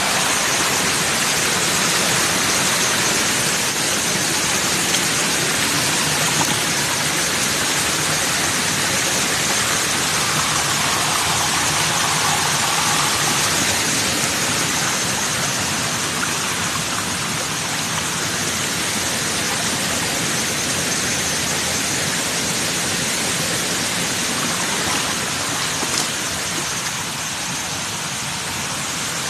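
Steady, even rushing of water, with no speech or distinct events.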